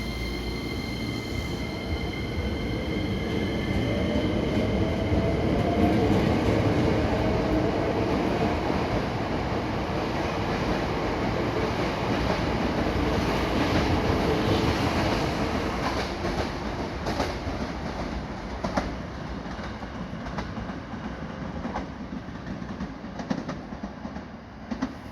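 Hankyu 9300-series electric train running, heard from inside the car over a steady rumble of wheels on rail. A whine from the drive rises in pitch over the first several seconds as the train gathers speed, and high steady whines fade out early on. In the second half there are sharp clicks of wheels over rail joints as the sound gradually eases.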